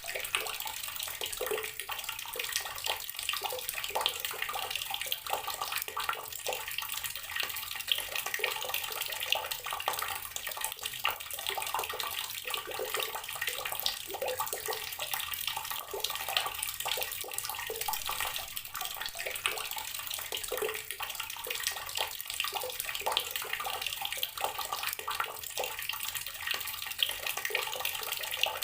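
Garden water tap running, its stream splashing steadily with many small splashes and drips and little low rumble.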